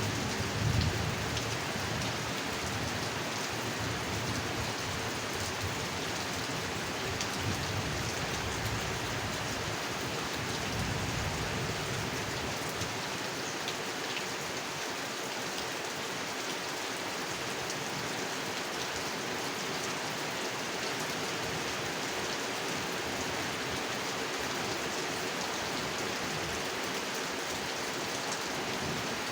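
Steady heavy rain falling on a pond, with low rumbles of thunder in roughly the first ten seconds that die away.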